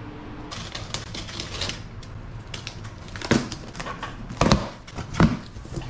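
Packaging being handled as a turbo-kit box is opened: a stream of rustling, crackling and clicking, with three louder knocks from about three seconds in.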